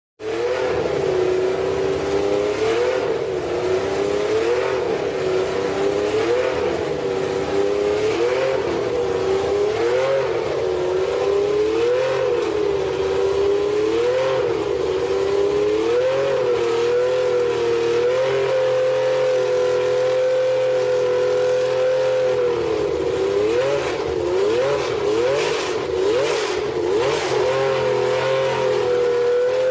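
Alfa Romeo 179 Formula 1 car's 3.0-litre Tipo 1260 V12 engine running at a fast idle with throttle blips about every two seconds. It holds a steady pitch for a few seconds past the middle, then takes a quick run of blips.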